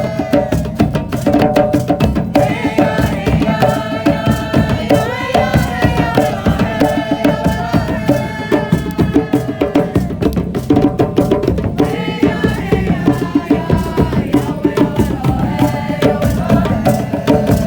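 A band playing music, driven by fast, dense hand-drum percussion, with a melody line that bends in pitch over the top.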